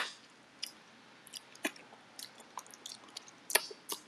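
A person chewing and eating with the fingers: a few soft, irregular mouth clicks and smacks.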